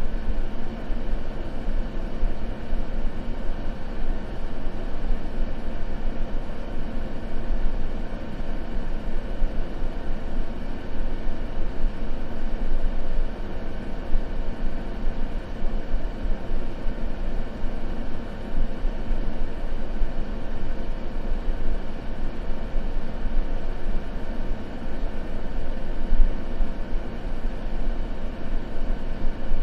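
Continuous white-noise sleep ambience: an even, unchanging rush, deep and rumbly rather than hissy, with a faint steady hum underneath.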